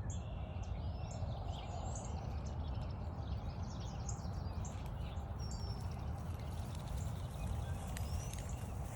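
Wild songbirds chirping and calling, with many short high notes scattered throughout and one rising whistle near the end. Under them runs a steady low rumble.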